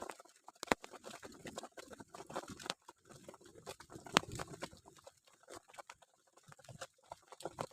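Raindrops pattering irregularly on a nearby surface, with two sharper taps, one just under a second in and one about four seconds in.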